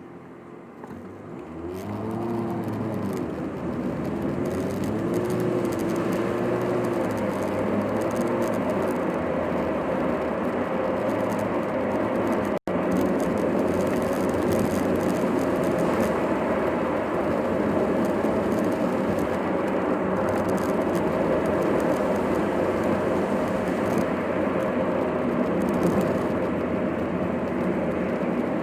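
Car engine and road noise heard from inside a moving car, played back at double speed: it rises with a wavering engine pitch as the car picks up speed, then settles into a steady drone. There is a split-second drop-out near the middle.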